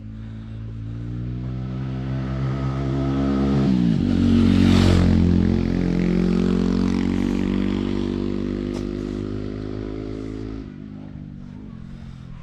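A motor vehicle's engine passing close by: it grows louder, drops in pitch as it goes past about four to five seconds in, then fades away.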